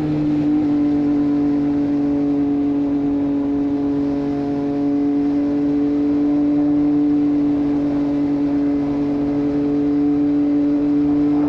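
Triumph Street Triple 765 RS inline-three engine through a Racefit Growler full exhaust system, running at steady revs and holding one even pitch, as at highway cruising speed.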